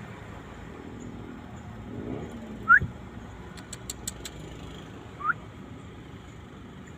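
Whistling duck giving two short, sharply rising whistled calls about two and a half seconds apart, the first louder. A quick run of four faint clicks falls between them.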